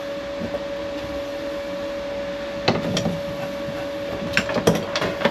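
A steady hum runs throughout, with a few light knocks and clicks about two and a half seconds in and again near the end.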